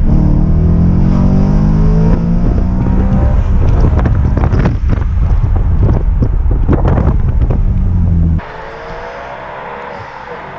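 BMW E92 M3's V8 with a loud exhaust, heard inside the cabin accelerating hard, its pitch climbing repeatedly. About eight seconds in the sound cuts to a quieter car approaching from a distance, its engine rising in pitch as it comes on.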